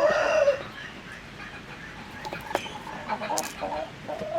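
Chickens clucking, with a loud pitched call that ends about half a second in, followed by quieter scattered clucks.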